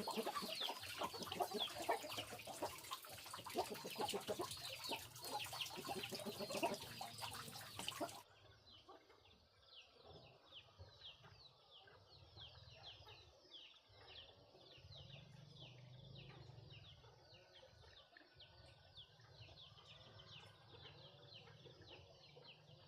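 Chickens clucking and peeping, with many quick, high, falling peeps overlapping. About eight seconds in, the sound drops abruptly to a quieter, thinner version of the same chatter.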